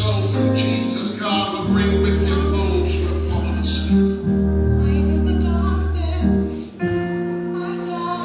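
Gospel song: voices singing over instruments with long held bass notes.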